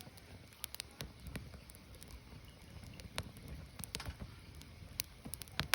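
Burning firewood crackling: irregular sharp pops and snaps over a low, steady rumble of the fire, with the loudest pop near the end.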